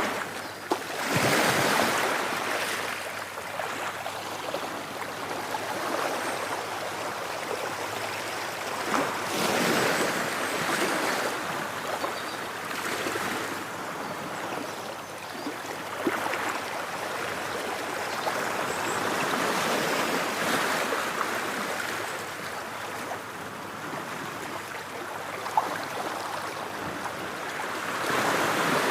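Ocean waves breaking on a shore, a continuous wash of surf that swells and falls back every few seconds.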